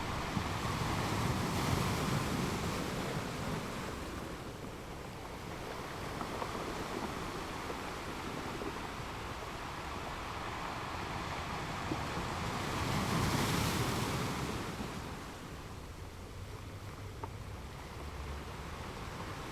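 Ocean surf on a beach: a continuous wash of waves that swells louder twice, about a second or two in and again around thirteen seconds in, as waves break.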